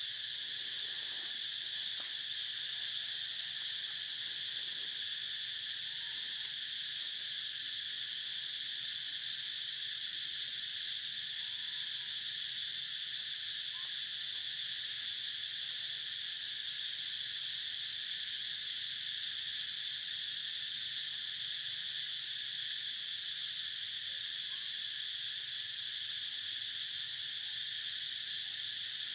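Steady chorus of insects, a continuous high-pitched drone, with a few faint short calls.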